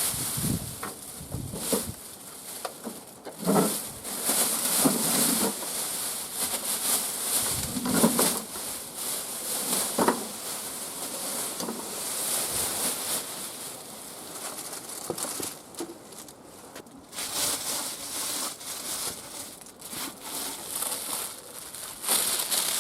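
Rustling and crinkling of packaging being handled, with a few short honking calls from geese about 3, 5, 8 and 10 seconds in.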